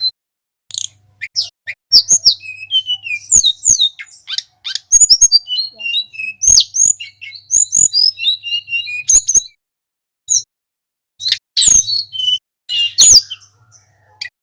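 Song of the sulingan gunung, an Indonesian songbird: quick runs of high, sharp whistled notes and chirps. There is a pause of about a second and a half just past the middle, then a few loud separate notes.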